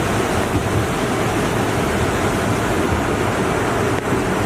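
A river in flood rushing past: a loud, steady noise of fast water.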